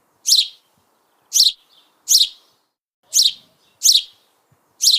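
Young Eurasian tree sparrow chirping: a series of six short, high chirps, each falling in pitch, about one a second.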